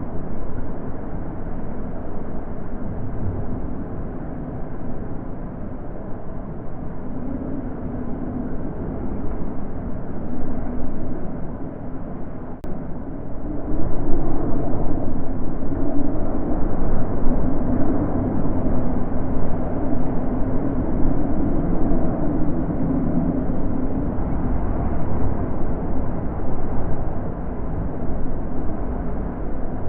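Wind blowing steadily as a low, rushing noise that grows louder about halfway through.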